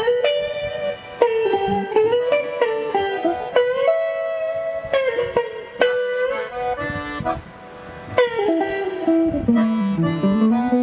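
Guitar and accordion duo playing an instrumental piece: held accordion notes over plucked guitar, with a brief softer passage about two-thirds of the way through.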